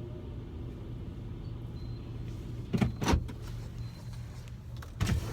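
A car engine idling with a steady low hum, heard from inside the cabin, with two brief loud thumps, one about halfway through and one near the end.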